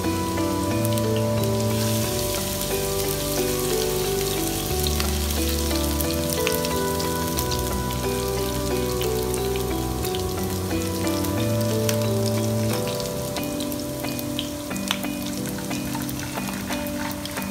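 Minced scallion and ginger sizzling and crackling in hot oil in a wok, under background music with a melody of held notes.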